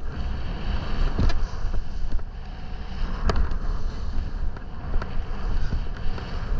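Wind buffeting the microphone of a skier's camera over the hiss of skis through snow, with sharp knocks about a second in and again past three seconds.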